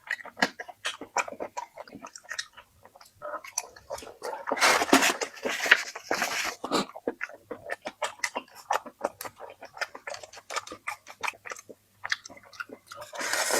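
A person chewing and biting food close to the microphone, with many quick wet mouth clicks. A louder, noisier stretch of chewing comes a few seconds in and again near the end.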